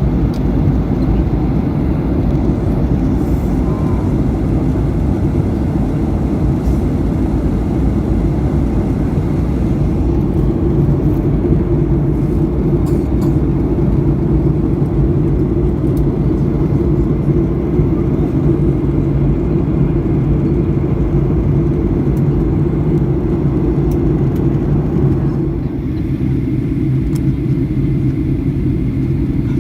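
Steady low roar inside the passenger cabin of a Boeing 737-800 in flight, from its CFM56-7B engines and the airflow over the fuselage. About 25 seconds in, the higher part of the noise drops away and it grows slightly quieter.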